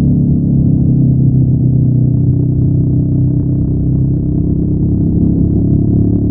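Honda NX500's parallel-twin engine, stock exhaust, running steadily under way with its pitch holding fairly even.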